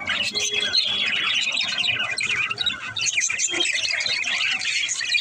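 A group of pet budgerigars chattering, with many quick chirps and squawks overlapping without a break.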